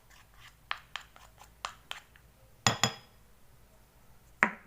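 A spoon clinking and tapping against a bowl as a spoonful of soft black soap is added: a run of light taps, then two loud ringing clinks in quick succession past the middle, and a last sharp knock near the end.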